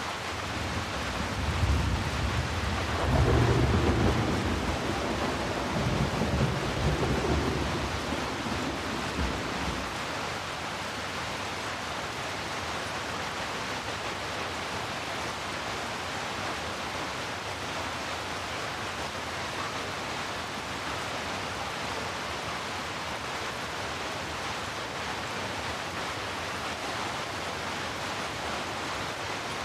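Steady rain with a roll of thunder that builds about a second in, is loudest a few seconds later and rumbles away by about ten seconds, leaving the rain alone.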